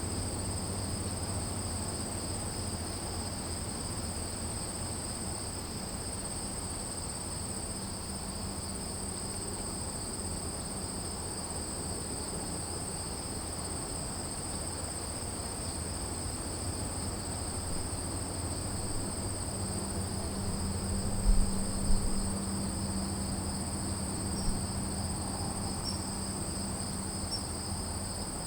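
A steady chorus of crickets trilling without a break at two high pitches, over a low rumble. There are two brief low thumps a little over 20 seconds in.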